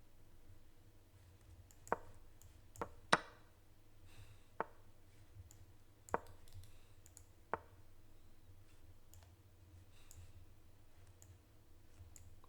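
Irregular sharp clicks of moves being made in a fast online chess game, about six louder ones with fainter ticks between, over a faint low hum.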